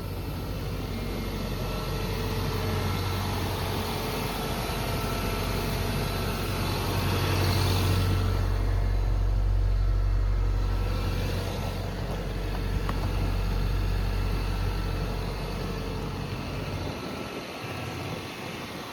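Isuzu Grafter light truck's 1.9-litre diesel engine running with a steady low hum. It rises in level and falls back in the middle, then fades near the end.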